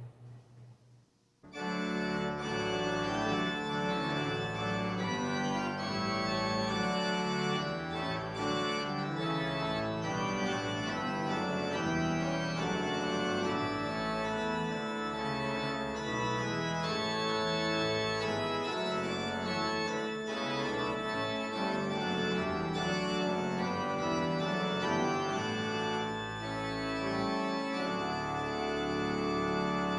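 Organ playing full sustained chords that change one to the next, coming in about a second and a half in: the closing voluntary after the benediction.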